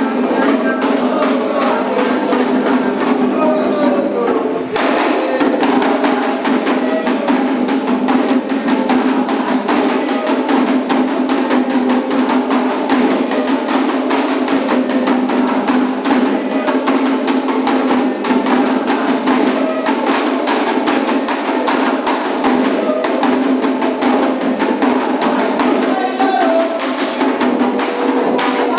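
Candomblé ceremonial music: steady, rhythmic hand-drumming with sharp wooden-sounding strikes, and voices singing over it.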